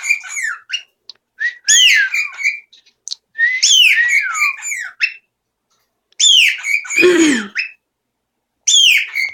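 Pet bird giving loud whistled calls: four bouts of quick sliding notes, each falling from high to mid pitch, about one to two seconds long with short pauses between. The third bout has a harsher, lower falling note mixed in.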